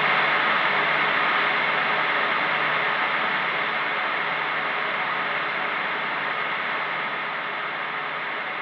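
Electronic noise wash, a dense hiss with faint steady tones held underneath, slowly fading.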